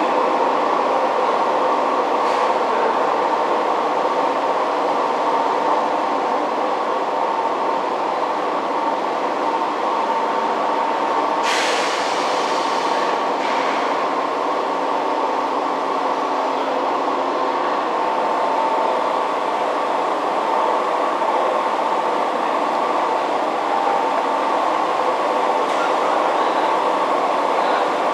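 Kintetsu 1810 series two-car train standing at an underground platform with its equipment running: a steady hum with a few fixed tones, the sound echoing in the station. A hiss breaks in about 11 seconds in and lasts about two seconds.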